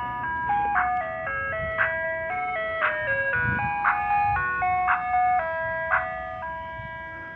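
Soft-serve ice cream truck's jingle playing: a chiming electronic melody with a bright bell-like accent about once a second, over a low engine rumble. It fades near the end.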